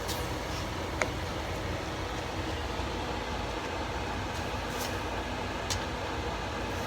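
Ground beef, onion and garlic frying in a pan: a steady hiss and hum, with two light clicks, about a second in and again near the end.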